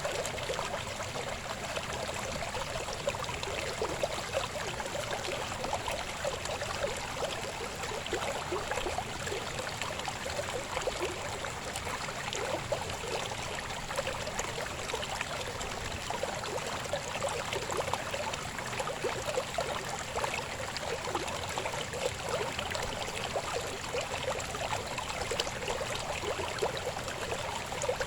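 Babbling river: water running over rocks in a steady, continuous burble of small splashes and gurgles.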